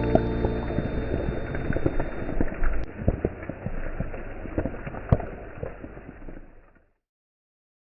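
Rain pattering with many scattered drop ticks, under the last held notes of a song that die away in the first couple of seconds. The rain fades out to silence about seven seconds in.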